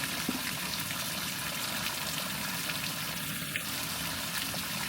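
Water running and trickling steadily in a flooded crawlspace, with a few faint clicks.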